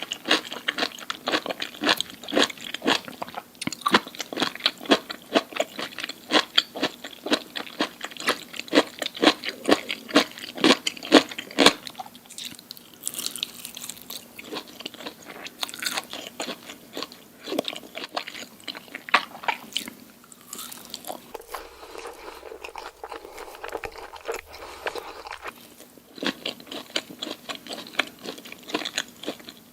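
Close-miked eating: crunchy food being bitten and chewed in rapid crackling crunches. The crunching thins to softer, quieter chewing about twelve seconds in and turns dense again near the end.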